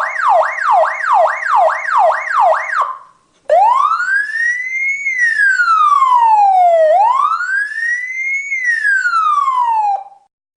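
Electronic police siren: a fast yelp, its pitch sweeping up and down about three to four times a second, breaks off after nearly three seconds; after a short gap it switches to a slow wail that rises and falls twice, then cuts off suddenly near the end.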